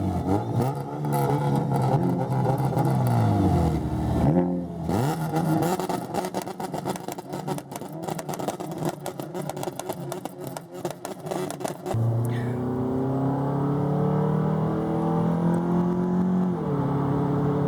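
Car engine accelerating hard through the gears. The pitch climbs and drops at a shift about four seconds in. Then comes a rough, crackly stretch, and from about twelve seconds the pitch climbs steadily again, with another shift near the end.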